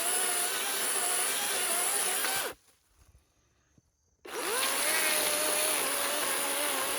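DeWalt 60-volt battery chainsaw cutting wood, its motor whine wavering under load. It stops about two and a half seconds in, then spins up again a second and a half later and runs on. The chain is dull and short of bar oil, which the owner blames for the chain locking.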